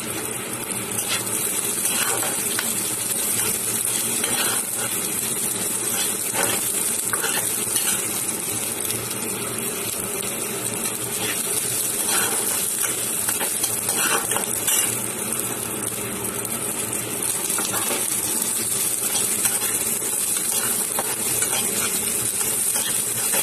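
Sliced onions, garlic and green chillies sizzling in hot oil in a wok, stirred with a metal spatula that clinks and scrapes against the pan every second or two. The steady frying hiss runs throughout.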